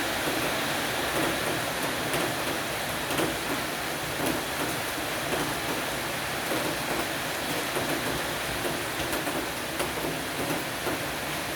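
Rain shower falling steadily on an awning roof, with scattered sharper drop hits standing out from the even patter.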